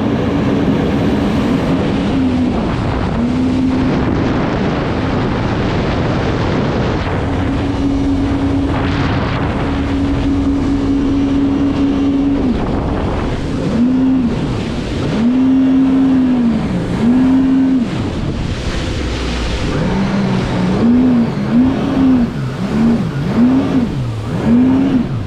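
Jet ski engine running under a constant rushing noise, its pitch held steady for a few seconds, then revved up and down repeatedly, faster toward the end.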